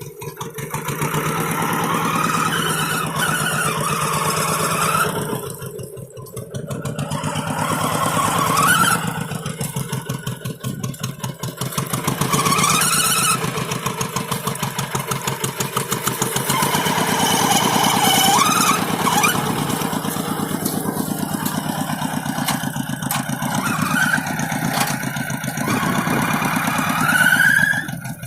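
Tractor engine running steadily while pulling a moldboard plough, its note dipping and picking up again about six seconds in and again around ten to eleven seconds in.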